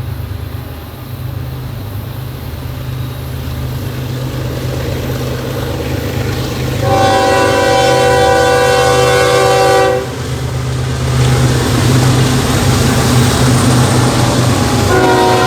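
Diesel locomotives of a BNSF intermodal train approaching, their low engine drone growing steadily louder. A multi-chime air horn sounds one long blast about seven seconds in, lasting some three seconds and cutting off sharply. Rail rumble and hiss then build, and the horn starts again near the end.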